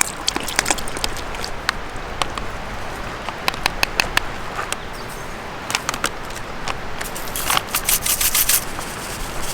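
Wood campfire crackling, with sharp irregular pops and a dense flurry of them near the end.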